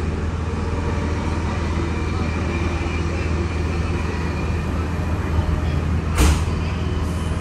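Ride noise inside a K-set double-deck electric suburban train running along the line: a steady low rumble from the wheels on the rails, with a single sharp knock about six seconds in.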